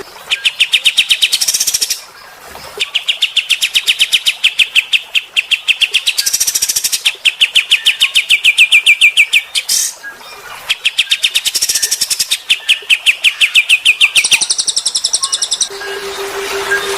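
Songbird singing in rapid trills, fast strings of repeated notes in bursts of two to three seconds with brief pauses between. A low steady hum comes in near the end.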